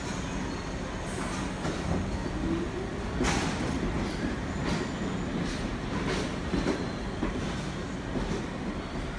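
R62 subway train moving on the track, with a steady rumble and irregular sharp clacks from the wheels over rail joints and switches. A brief rising whine comes about three seconds in.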